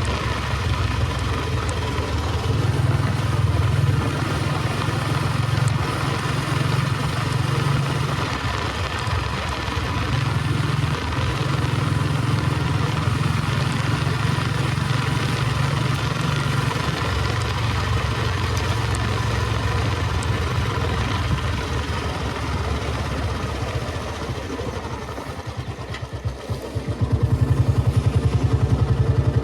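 Royal Enfield Bullet 350 Electra's cast-iron single-cylinder engine thumping as the motorcycle is ridden. The throttle eases off and the engine goes quieter about three-quarters of the way through, then it opens up again with a louder, even thump near the end.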